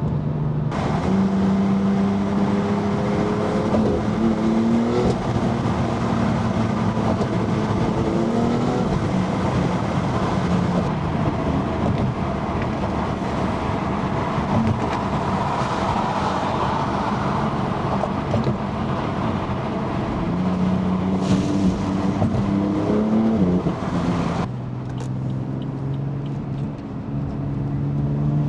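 Tuned BMW F80 M3 twin-turbo inline-six pulling hard through the gears: its pitch climbs and steps down at each upshift, over heavy road and wind noise at speed. About three-quarters of the way through it eases off to a steady lower drone, then starts climbing again near the end.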